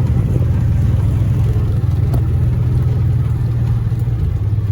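Vehicle engine running steadily at an even speed, heard from on board while riding.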